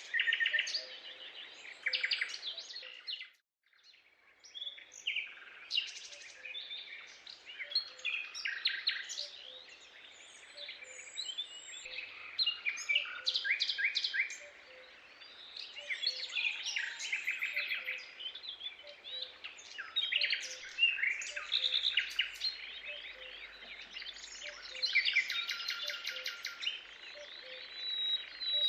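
Birds chirping and calling in a busy chorus, with quick trills and rapid runs of repeated notes. It is a forest ambience that drops out briefly about three seconds in, then resumes.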